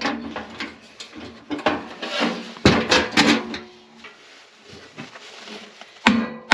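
Irregular metal knocks and clanks from hand tools on a furnace blower motor and its squirrel-cage fan, with a few harder strikes about three seconds in and again near the end, as the stuck motor shaft is tapped and worked to free it from the fan.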